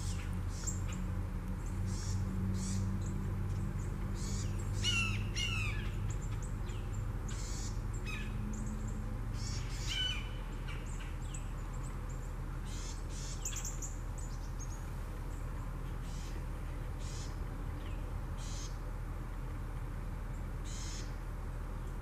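Birds calling: scattered short, high chirps throughout, with a cluster of quick rising-and-falling notes about five seconds in, over a steady low hum.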